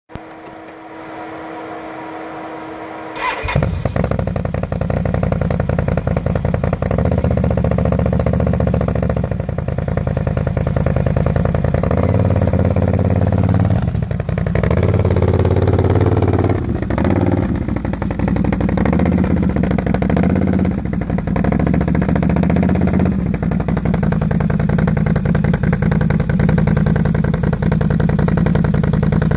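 Can-Am Outlander 1000 X ATV's Rotax V-twin engine, breathing through a Two Brothers aftermarket exhaust. After about three seconds of a steady whine it starts up suddenly, then runs loud with the revs rising and falling several times before settling to a steady idle near the end.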